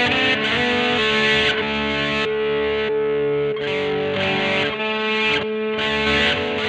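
Distorted electric guitar, a Fender Jazzmaster HS Blacktop converted to a 'Jazzblaster', played through a Peavey Vypyr VIP 2 modelling amp with effects: chords and held notes ringing out, with a few brief gaps between phrases.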